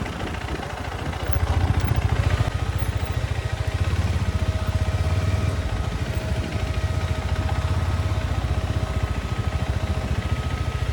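Motorcycle engine running steadily with a fast, even pulse. A thin steady whine joins about two seconds in.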